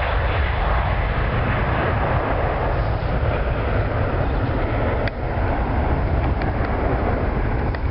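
Boeing 767-300 jet engines at takeoff thrust as the airliner climbs away, a steady broad noise with heavy wind rumble on the microphone. A single click about five seconds in.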